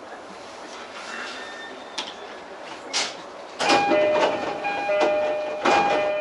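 E231-series commuter train at a station stop: two short air hisses, then the door chime plays a two-note high-low tone three times over the noise of the doors opening.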